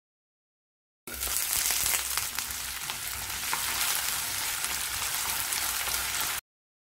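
Cut potatoes frying in sesame oil in a nonstick kadai, sizzling steadily while a wooden spatula stirs them, with light scraping clicks. The sizzle cuts in about a second in and stops abruptly near the end.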